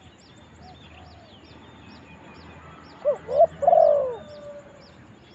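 Spotted dove cooing one three-note phrase about three seconds in, two short coos and a longer final one. Steady high-pitched chirping of small birds or insects runs beneath it, about three chirps a second.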